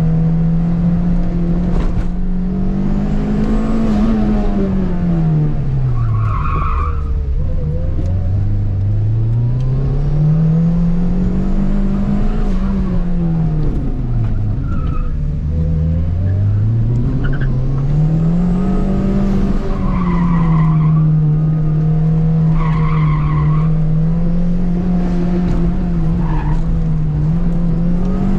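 Turbocharged K-series four-cylinder of an Acura RSX Type-S driven hard at autocross, its engine note climbing and falling again and again as the car accelerates and slows between corners. The tires squeal briefly several times.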